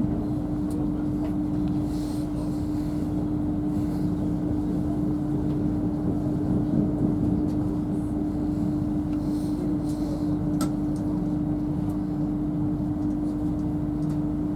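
Cabin sound of a Hitachi Class 800 bi-mode train under way on diesel power: a steady hum with one constant tone over a low running rumble, and a few faint clicks.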